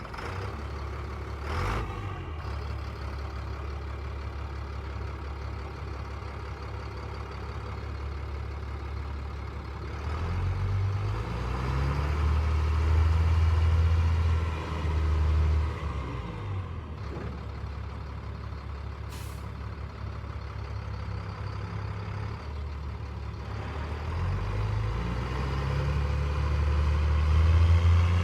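Diesel engine of a 1997 Freightliner bulk fuel truck running just after start-up, idling steadily and revved up twice: once about ten seconds in, dropping back around sixteen seconds, and again building toward the end. A brief hiss of air a couple of seconds in and again midway.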